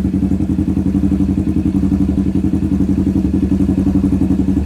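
Kawasaki Z650's parallel-twin engine idling loudly through a custom full exhaust system, a deep, even, rapid throb that holds steady without revving.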